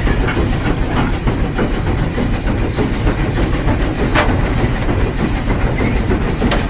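Heisler geared steam locomotive running, heard from inside its cab: a steady loud rumble and clatter with scattered knocks, one sharper knock about four seconds in.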